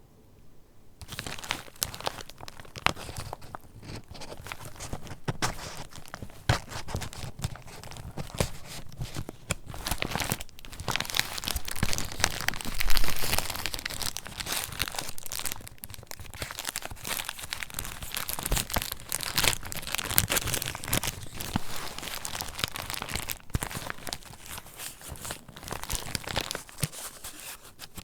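Paper rustling and crinkling as the pages of a handmade junk journal are handled and turned, with many small crackles; it starts about a second in and peaks in a louder rustle near the middle.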